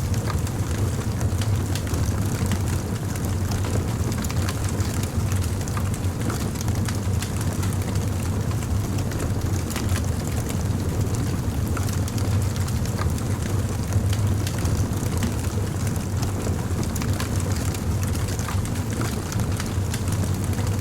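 Fire crackling: many small, sharp pops and ticks scattered over a steady low rumble.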